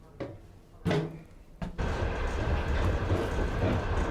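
Steady low rumble of a Russian passenger train carriage heard from inside, starting suddenly about two seconds in after a quieter opening with a couple of brief short sounds.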